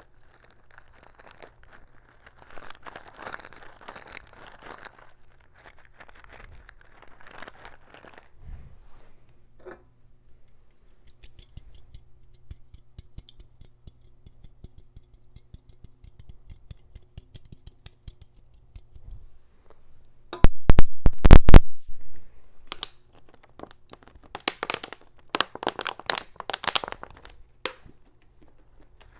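Close-up crinkling and scratching noises, ASMR-style: soft rustling, then faint rapid ticking. About two-thirds of the way through comes a short cluster of very loud sharp clicks, followed by a run of crackling snaps.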